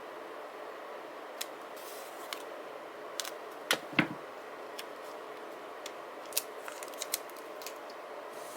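Scattered small clicks and snips of paper-crafting at a desk, about a dozen in all, with two louder taps close together a little before the middle, over a steady background hiss.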